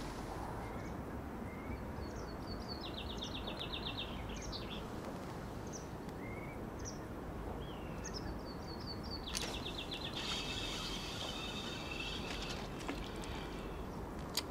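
Small birds singing: scattered chirps and quick repeated trills, over a steady hiss of wind and river. A single sharp click near the end.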